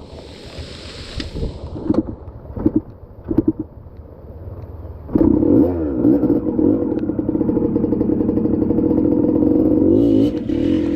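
Dirt bike engine blipped three times, then opened up about five seconds in and held at high revs, its pitch wavering.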